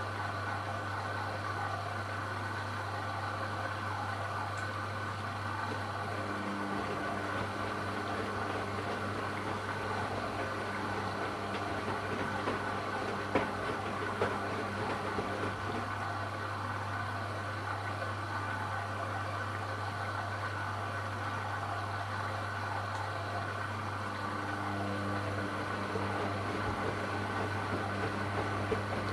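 AEG Lavamat Turbo washer-dryer running through a test wash: a steady machine hum, with a couple of light knocks about halfway through.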